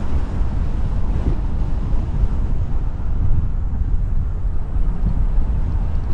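Wind buffeting the microphone of a camera on a moving car, a steady rumble with a lighter hiss of road noise above it.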